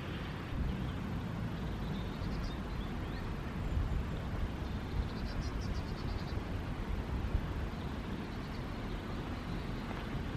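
Wind buffeting the microphone on a moving bicycle, a steady low rumble, with short runs of faint high ticking or chirping twice.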